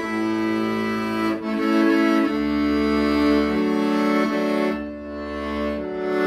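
Accordion playing a melody over held chords, with low bass notes coming in under it twice.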